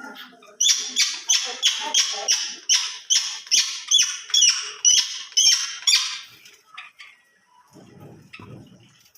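A cage bird calling in a rapid, even series of harsh, scratchy notes, about three a second for some five seconds. A short low rumble comes near the end.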